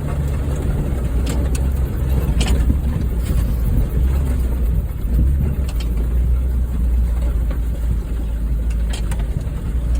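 Honda Fit driving over rough ground: its four-cylinder engine gives a steady low drone under a rumble, with a few short knocks and rattles.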